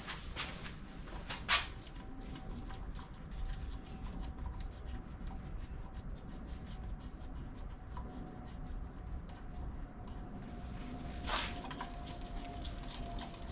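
Faint rapid clicking and light metallic ticking of hand work on engine bolts, with a sharper click about a second and a half in and another near the end. A faint steady hum sits underneath.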